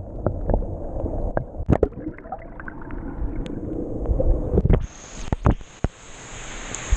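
Muffled water gurgling and sloshing with scattered sharp clicks and knocks, the bright hiss of rain and river gone, as when the microphone is dipped underwater while a fish is released. The higher hiss partly returns about five seconds in.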